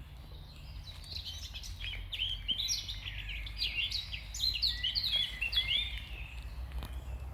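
A small songbird singing a fast, jumbled phrase of many quick falling notes for about five seconds, starting about a second in. A steady low rumble runs underneath.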